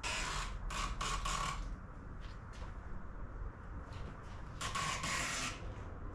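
Hands working a stick-on trunk spoiler into place: short scraping, rubbing strokes near the start and again near the end, with a few light ticks between.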